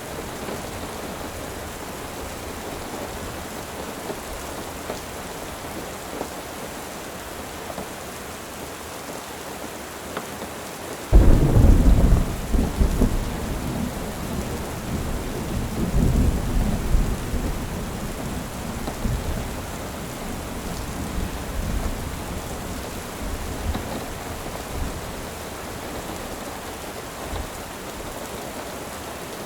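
Steady rain falling, with a sudden loud clap of thunder about a third of the way in that rumbles on, swells again, and fades out over several seconds.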